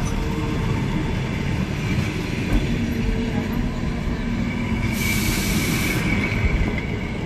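Train moving through the station, a steady rumble of wheels on rails with a faint high squeal. About five seconds in comes a hiss lasting about a second.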